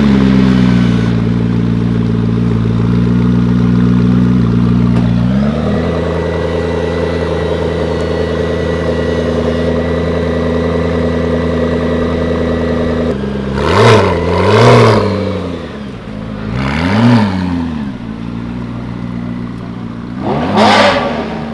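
A car engine idling close by. The idle drops to a lower, steady speed about five seconds in. Later the engine is blipped four times, each rev rising and falling quickly.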